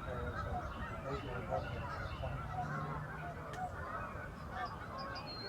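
A large flock of geese calling all at once: a dense, continuous chorus of many overlapping honks.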